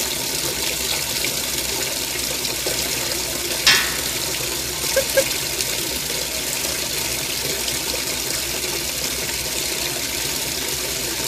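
Washing machine filling: water pouring steadily into the drum, with one brief sharp sound a little under four seconds in.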